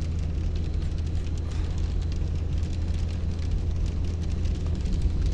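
Pickup truck driving on a soft, muddy road in four-wheel drive, heard from inside the cab: a steady low engine and road drone.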